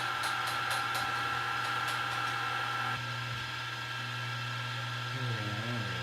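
Milling machine running steadily with a hum and a higher whine, with faint ticks over the first couple of seconds. The sound drops a little and its tone changes about three seconds in.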